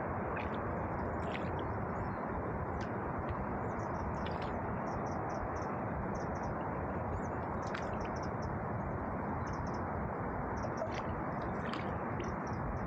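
Small bird calling in short, high chirps, some in quick runs of three or four notes, over a steady rushing noise.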